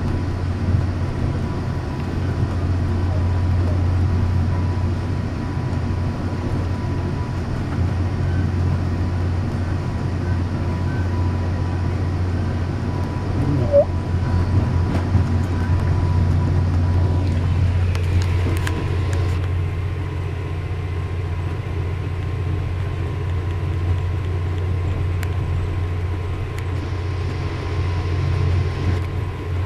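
Steady low rumble of a moving commuter train heard inside a bilevel passenger coach, with a faint steady high whine running through it and a brief sharp squeak about halfway through.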